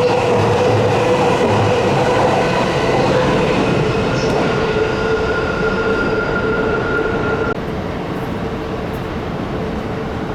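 Electric train running on rails with a steady whine over the rumble. About two-thirds of the way through, a higher whine cuts off suddenly and the sound gets a little quieter.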